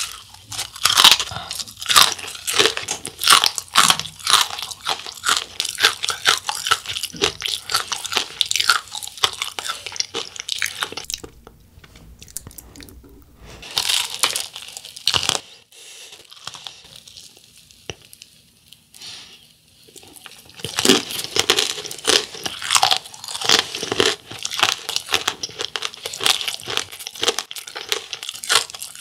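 Close-miked crunching and chewing of a fried corn dog with a crust of crushed dry ramen noodle snack: dense, crisp crunches with each bite and chew, easing off for a few seconds about halfway through before starting up again.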